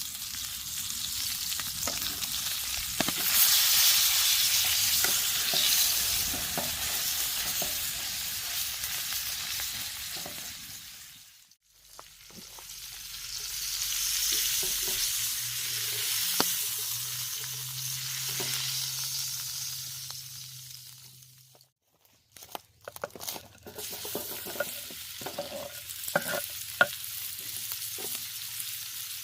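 Steak sizzling as it sears, in three stretches that each swell and fade away, with a few sharp clicks and knocks in the last one.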